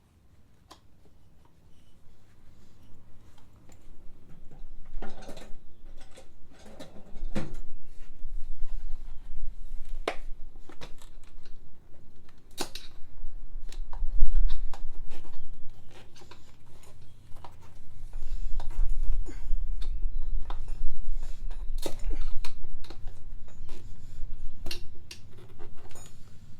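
Hand tools clinking and knocking on metal, with scattered sharp clicks and low handling thumps, as the scooter's front tire is worked off the wheel rim.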